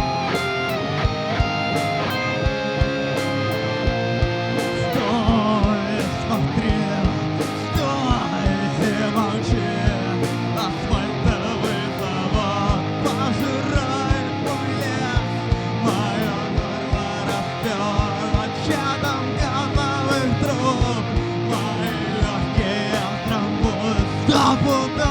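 Punk rock music: guitars played over a steady drum beat, with a wavering melody line coming in about five seconds in.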